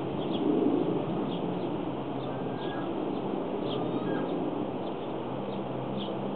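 Short, high chirps of small birds now and then, over a steady background rumble with a faint low hum.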